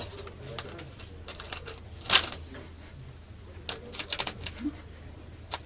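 Coins clinking and clattering in scattered sharp clicks, the loudest rattle about two seconds in and another cluster around four seconds.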